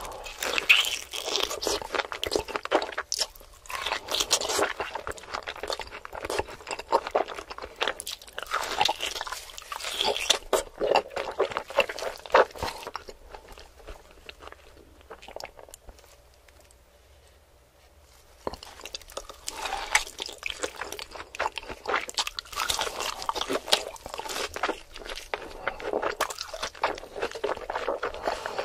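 Close-miked chewing of a large bite of seared meat: dense, wet mouth clicks with crunching of the crust. It goes quiet for about five seconds around the middle, then the chewing starts again.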